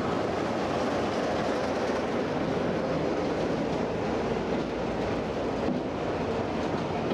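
Passenger coaches hauled by a Class 33 diesel locomotive rolling past at close range: a steady rumble of wheels on rail, with a low, steady engine drone beneath it.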